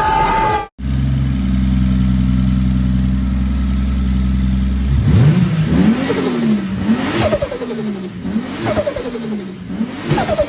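Toyota Supra MK4's turbocharged 2JZ straight-six idling steadily, then from about halfway revved in about four quick blips, each falling back with a turbo flutter as the throttle closes.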